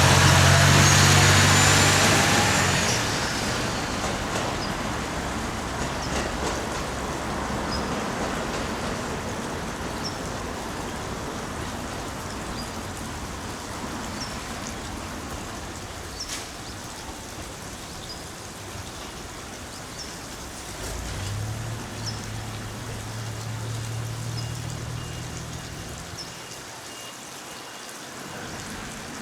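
A vehicle engine's hum passes close and fades away within the first three seconds, leaving a steady hiss of rain with faint scattered drips. A second engine hum swells and dies away about twenty seconds in.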